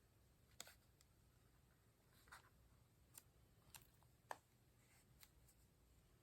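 Near silence: room tone with about six faint, short ticks and scrapes from hands handling paper at a craft desk.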